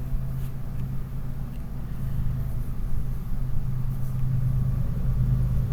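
Steady low mechanical hum with no speech over it.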